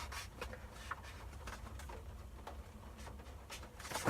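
Faint paper-handling noises: light rustles and soft taps, scattered and irregular, over a low hum.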